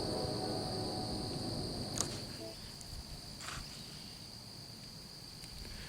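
Crickets chirring in a steady high trill in still woods. A fading tone dies away in the first half second, and there is a single sharp click about two seconds in.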